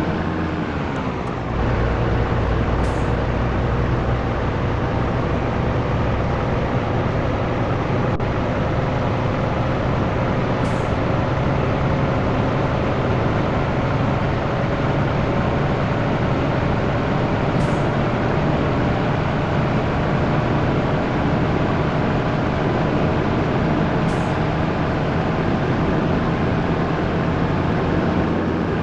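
Scania T113 truck's diesel engine pulling on the road. The revs drop through a gear change about a second in, then the engine speed climbs slowly and steadily under load.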